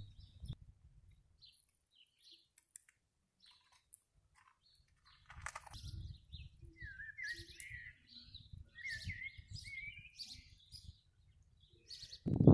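Small birds chirping, with a short warbling song phrase repeated about three times from about seven to ten and a half seconds in, over a low rumble in the middle.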